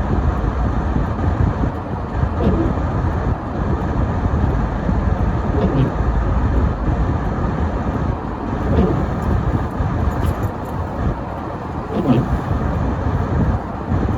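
Car driving on a snowy road: a steady low rumble of engine and road noise, with a short squeak recurring about every three seconds.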